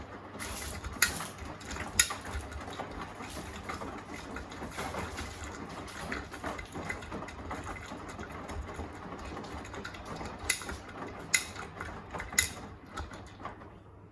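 Beko WTK104121A washing machine tumbling a full load during the wash: the wet laundry sloshing in the drum over a steady motor hum, with a few sharp clicks against the drum. The tumbling stops suddenly near the end.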